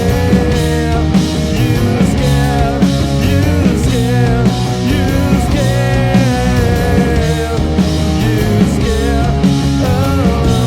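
Live grunge rock band playing an instrumental passage: distorted electric guitars, bass and drums, with a lead line bending up and down in pitch.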